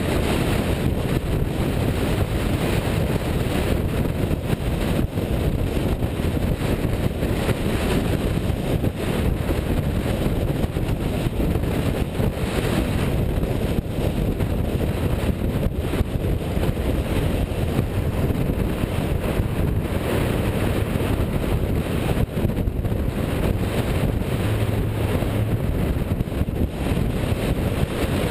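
Classic car driving at speed: a steady low rumble of engine and road, with wind buffeting the microphone.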